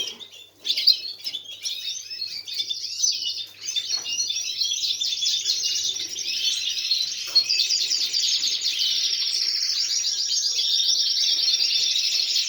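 Canaries singing: rapid, warbling trills and chirps that settle into one continuous rolling trill from about halfway on.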